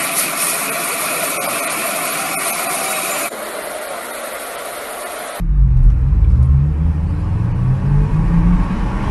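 A steady hiss of noise, then an abrupt cut about five seconds in to loud sports-car engines accelerating hard, their pitch climbing again and again through the gears.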